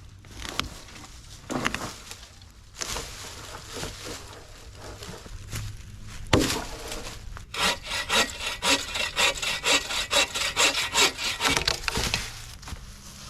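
Hand saw cutting through wood in even back-and-forth strokes, about three a second, starting about halfway through. Before the sawing there are a few knocks and handling noises, the loudest a sharp knock about six seconds in.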